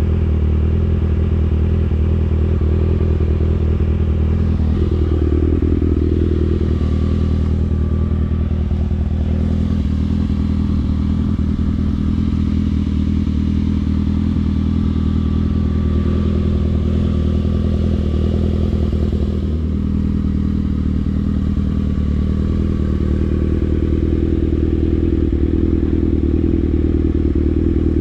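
Motorcycle engine running while riding at a fairly steady speed, its pitch shifting slightly a few times.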